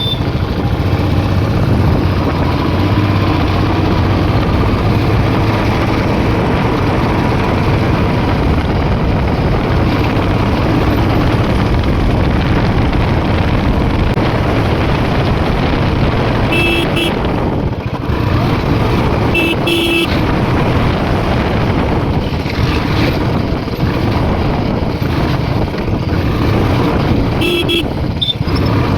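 A motorcycle riding along with steady engine and road noise. A horn gives short beeps about halfway through, again a few seconds later, and near the end.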